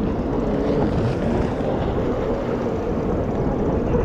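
Watercraft engines running with a steady drone.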